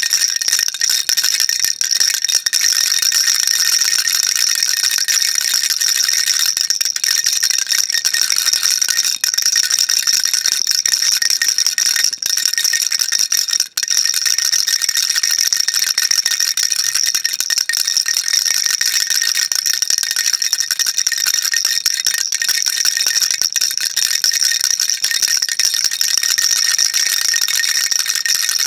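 Baby rattle shaken continuously, a dense, steady, high-pitched rattling with only a brief break about fourteen seconds in.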